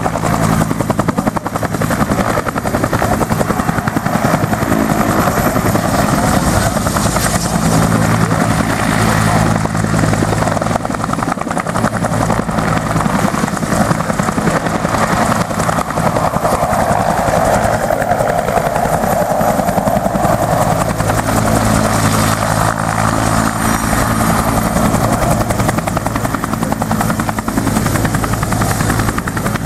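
Vietnam-era Bell military helicopter running loud and close, its two-blade main rotor beating in a rapid, even chop over a steady turbine hum and a thin high whine.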